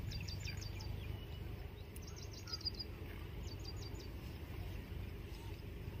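A small bird calling in three quick runs of short, high, falling chirps, over a steady low outdoor rumble.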